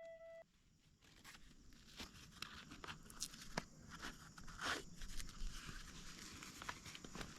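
Irregular rustling with scattered crunches and light clicks, as of footsteps and movement on dry leaves and twigs on the forest floor.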